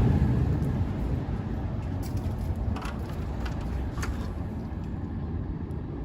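Commercial Carrier condenser fan motor running with a low rumble that dies down over the first second or so, then holds steady, with a few light clicks. The fan looks like it might be spinning the wrong way.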